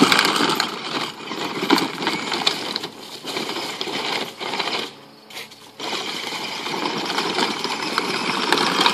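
Power Wheels Jeep Hurricane ride-on toy driving, its electric drive motors and plastic gearboxes whirring with the plastic wheels rattling over the ground. It stops briefly about five seconds in, then starts again.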